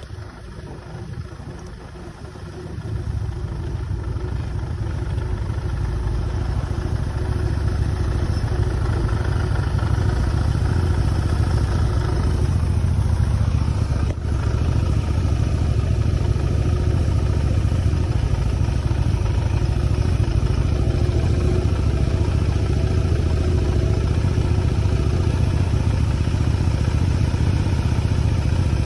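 Motorcycle engine running under way, building up from about three seconds in and then holding a steady low rumble.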